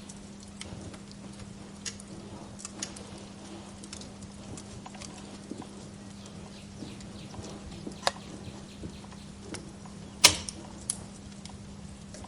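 Wood fire crackling in a fireplace: scattered sharp pops and snaps, the loudest a little after ten seconds in, over a steady low hum.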